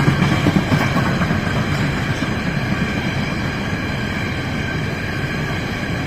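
A train running past on the line, with a dense rumble of wheels on rail and a set of steady humming tones above it. It is loudest in the first second or two, then settles to an even level.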